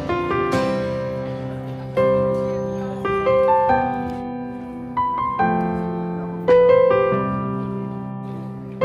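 Background music: slow solo piano playing sustained chords and melody notes, a new note or chord struck about every second and left to ring.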